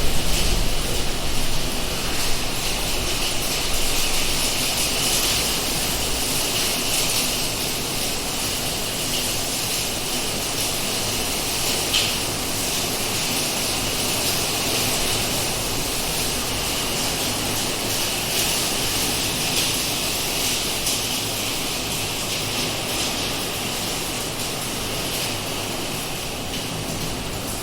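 Heavy rain pouring down in a steady hiss, with a low rumble in the first few seconds that fades out and one short sharp knock about twelve seconds in.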